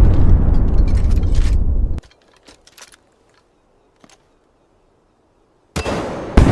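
Loud rumbling, crackling boom like an explosion sound effect that cuts off suddenly about two seconds in, leaving near silence with a few faint clicks; another loud boom bursts in near the end.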